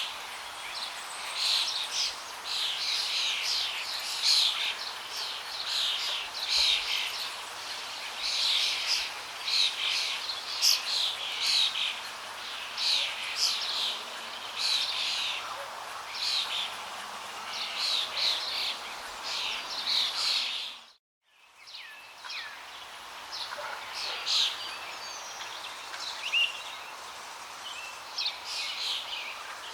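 Small birds chirping and singing with quick, falling notes over a steady rush of flowing water. The sound cuts out for about a second roughly two-thirds of the way in, and the chirping is sparser afterwards.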